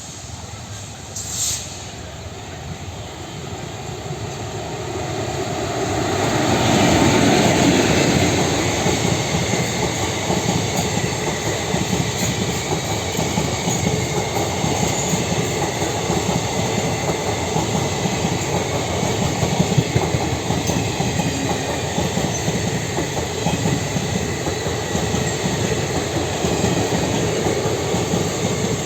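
Indian Railways passenger express train approaching and running past. Its rumble builds to its loudest about seven seconds in, then the coaches go by with a steady clickety-clack of wheels over the rail joints.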